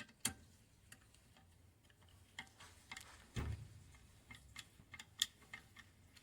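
Scattered light clicks and taps at irregular intervals, with a duller knock about three and a half seconds in.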